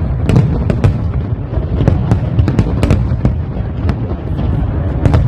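Fireworks display: many sharp bangs and crackling pops in quick, irregular succession over a continuous low rumble of distant bursts.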